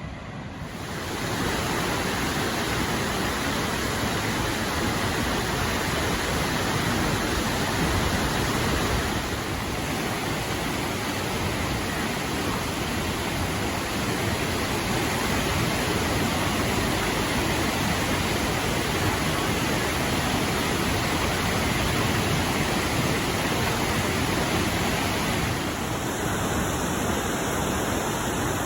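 Waterfall: a steady, even rush of falling water, swelling in over the first second or so and then holding constant.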